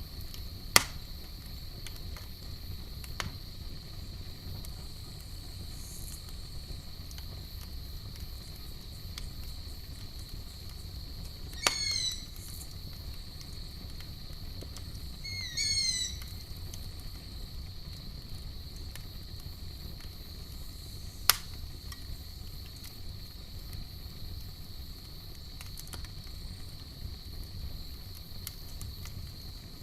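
Campfire burning with a low steady rumble and a few sharp crackling pops, under a continuous high trill of night insects such as crickets. Twice, about a third of the way in and again a few seconds later, a short run of quick falling chirps sounds, like a bird call.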